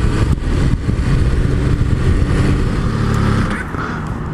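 MV Agusta Turismo Veloce 800's three-cylinder engine running while the bike is ridden, over a steady rush of wind noise; the engine note eases off about three and a half seconds in.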